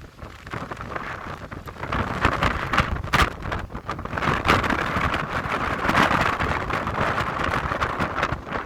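Typhoon wind gusting hard across the microphone with driving rain, swelling and easing every second or two with sharp crackling pelts.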